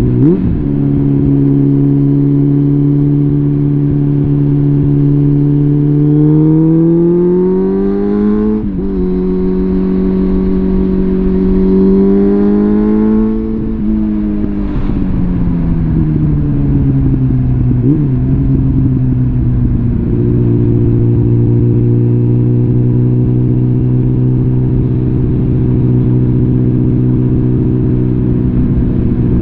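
Suzuki GSF650 Bandit's inline-four engine through a full Arrow exhaust, heard on the move. It runs steadily, then pulls up in revs, with a brief drop about nine seconds in like a gear change. It climbs again, then the revs fall away for several seconds and it settles back to a steady drone.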